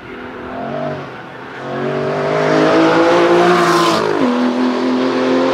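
Aston Martin V12 Vantage S's V12 engine pulling hard at full throttle, getting steadily louder and rising in pitch, then the note drops sharply about four seconds in and carries on steady and loud.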